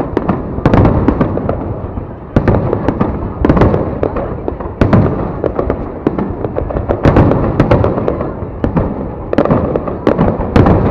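Aerial fireworks bursting in quick succession: loud booms every second or two, with smaller cracks between them over a continuous rumble.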